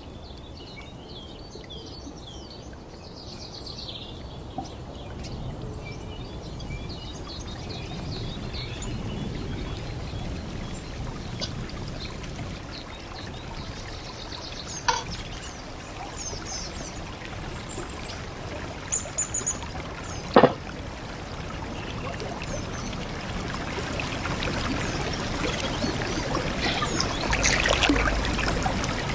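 Stream water running and trickling steadily, growing louder toward the end, with birds chirping over it in the first few seconds and a few sharp knocks about halfway through.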